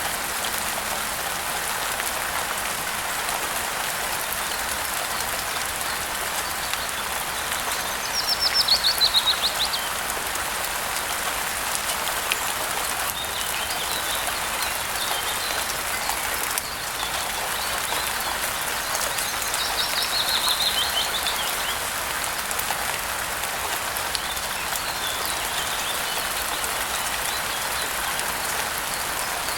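Steady rain falling, with a songbird twice giving a loud, fast trill that slides down in pitch, about a third of the way in and again past the middle, and fainter chirps in between.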